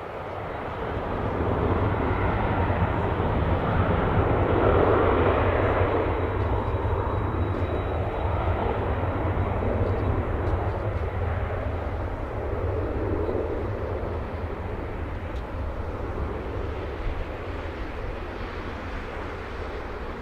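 Jet engines of a Boeing 737-800 (CFM56-7B turbofans) as the airliner passes: a broad roar that swells to its loudest about five seconds in, then slowly fades.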